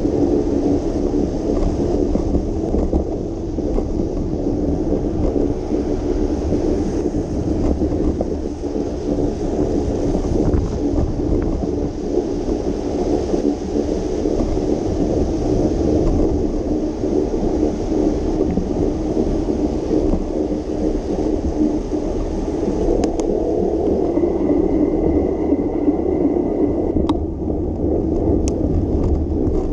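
Steady low rumble of wind on the microphone together with road noise while cycling on wet streets. Near the end a faint high tone holds for a few seconds, followed by a few sharp clicks.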